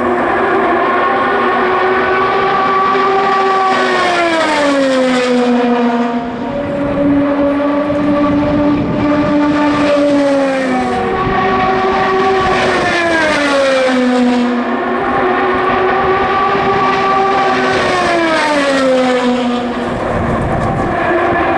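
IndyCars' 2.2-litre twin-turbo V6 engines at full speed passing one after another. Each note holds steady, then drops in pitch as the car goes by, about four times in a row.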